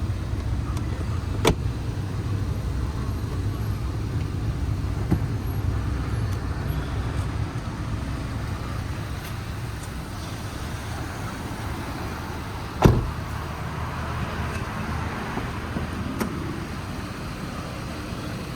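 Steady low vehicle rumble, a car running or traffic, with a few sharp clicks and one louder knock about 13 seconds in.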